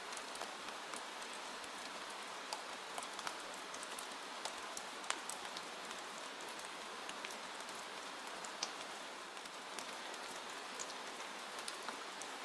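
Steady rain pattering on a window, an even hiss with scattered sharper drop ticks.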